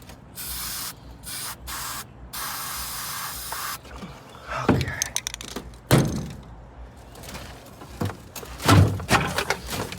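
Spray hissing in about four short bursts, then a few knocks and thuds.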